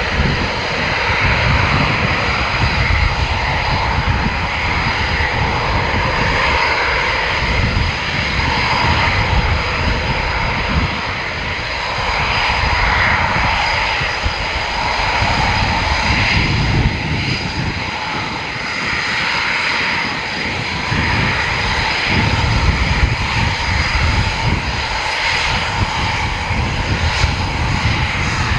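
Military fighter jet engines running loud and steady, a rough rumble with a high steady whine on top.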